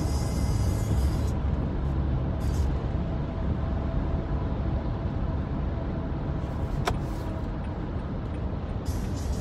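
Car driving along with a steady low rumble of engine and road noise, and a single sharp click about seven seconds in.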